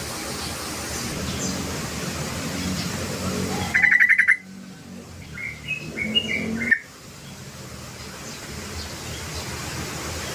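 Crucokan bird (a bulbul) calling: a loud rapid trill about four seconds in, followed by a few short, clipped notes. The calls are over a steady background hiss.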